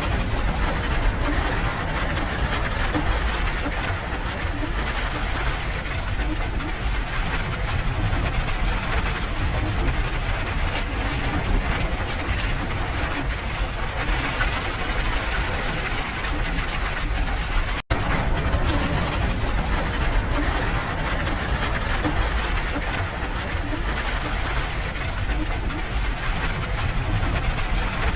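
Steady rain noise with a low rumble underneath, dropping out for an instant about 18 seconds in.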